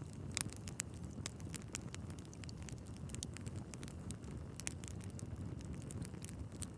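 Wood fire crackling in a fireplace: a steady low rumble of flames with many small irregular snaps and a few louder pops, the loudest about half a second in and again near 4.6 seconds.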